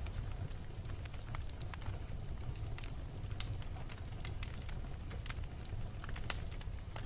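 Wood fire burning in a fireplace: a steady low rumble of flames with irregular crackles and pops from the burning logs, a couple of sharper pops standing out.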